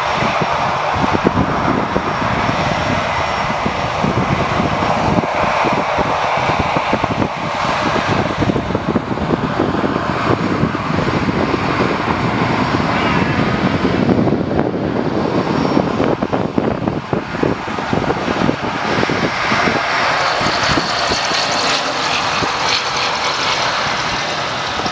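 Transall C-160 military transport's twin Rolls-Royce Tyne turboprops running loudly as the aircraft arrives: a dense, continuous propeller and engine noise.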